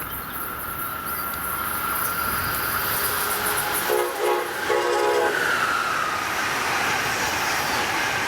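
Amtrak passenger train approaching and passing at speed, its rush of noise building. About four seconds in it sounds its horn twice, a short blast then a slightly longer one.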